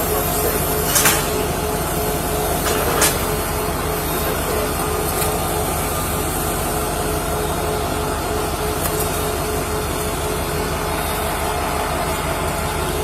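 Steady low hum of a running vehicle, with a faint constant tone and two short clicks, about one and three seconds in.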